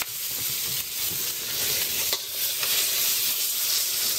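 Shrimp sizzling in hot oil in a wok, with a metal spatula stirring and scraping against the pan now and then.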